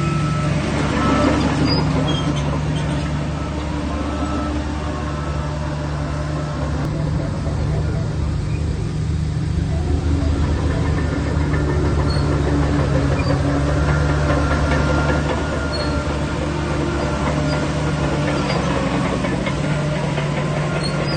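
Heavy diesel engine of a Shantui DH17C3 bulldozer running steadily under working load, its low note shifting now and then as the load changes.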